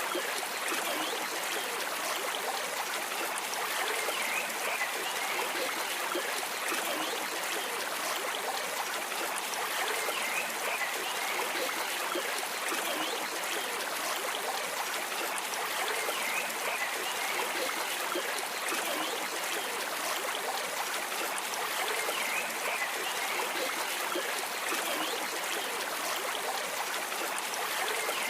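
Stream water running and trickling in a steady, unbroken flow.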